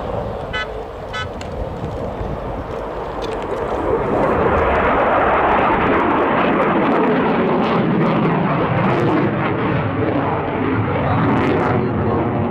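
Swiss Air Force F/A-18 Hornet's twin General Electric F404 turbofans passing in a display, a broad jet noise that swells about four seconds in and stays loud.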